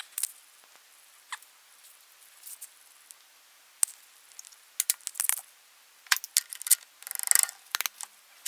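Scattered light clicks and taps with a short scrape near the end: an aluminum workpiece and machining parallels being set and clamped in a milling vise.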